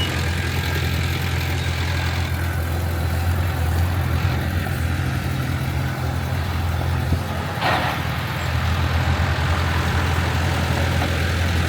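Heavy construction machine's diesel engine running steadily at a low, even speed, with a brief hiss about eight seconds in.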